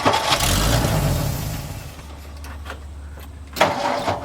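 1962 Ford F-350 engine being cranked on the starter. It catches on gas poured into the carburetor, runs with a low rumble for about a second and a half, then dies for lack of fuel supply. The starter cranks again briefly near the end.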